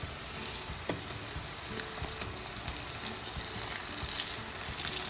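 Slices of Spam sizzling steadily in a frying pan in a soy sauce and sugar glaze, with a few small pops.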